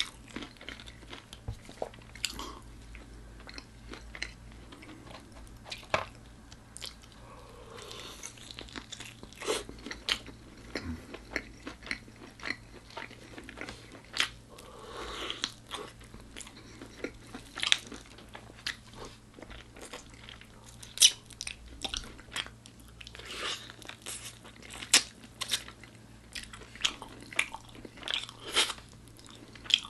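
Close-miked eating of crispy food: repeated sharp, irregular crunching bites with chewing in between, the crunches coming every second or so.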